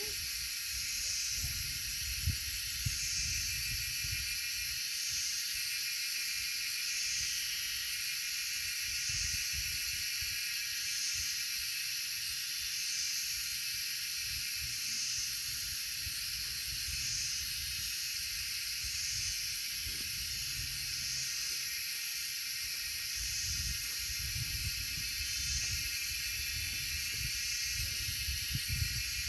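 Wind rumbling against the microphone under a steady, high-pitched insect buzz that swells about every two seconds.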